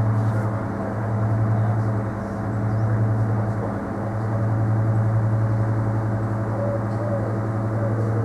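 Refrigerated home delivery vans on charge, giving off a steady low droning hum with several overtones that swells and dips slightly every second or two. This is the charging noise that the new van model makes, here from just two vans.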